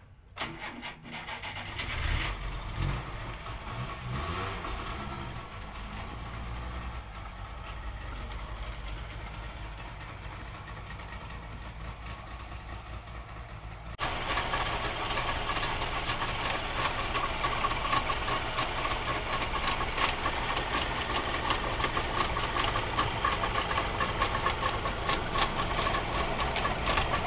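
1959 Wartburg 311's three-cylinder two-stroke engine starting about two seconds in, revving up and down for a few seconds, then running steadily. From about halfway on it is louder and brighter, heard close to the open engine bay.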